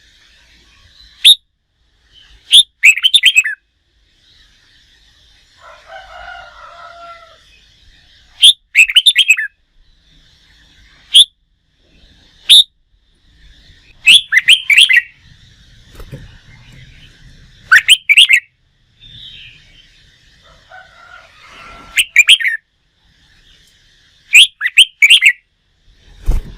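Red-whiskered bulbul singing: short, loud, chirpy phrases repeated every one to three seconds over a faint steady high buzz.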